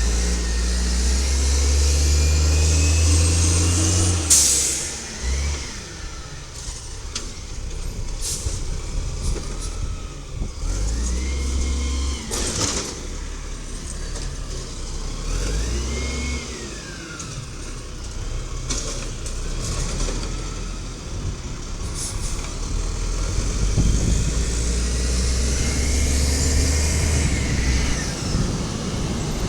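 Side-loader garbage truck working its route: the engine revs up twice with a rising whine, first at the start and again near the end, with a sharp air-brake hiss about four seconds in and a few bangs, the loudest near the middle.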